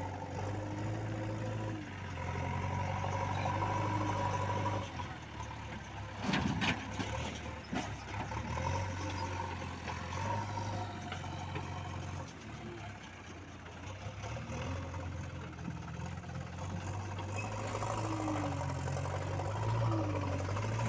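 Heavy diesel engine running steadily at a low pitch, with a short, loud noise about six seconds in.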